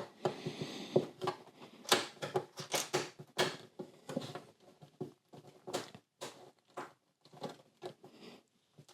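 LEGO plastic pieces clicking and clattering as they are pried apart and handled: irregular short sharp clicks, thinning out in the last few seconds.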